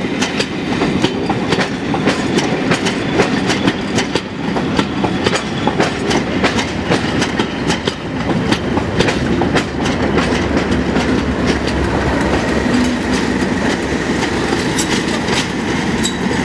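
Train hauled by a Class 40 diesel locomotive rolling along, a steady low rumble with the wheels clicking over rail joints again and again.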